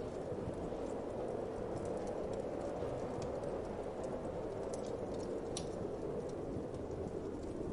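Wood fire crackling, with scattered sharp pops and ticks, over a steady low whoosh of wind.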